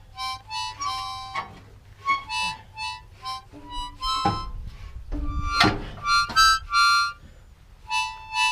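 Harmonica played as a tune of short, quick notes and chords, with two louder sharp attacks about four and five and a half seconds in.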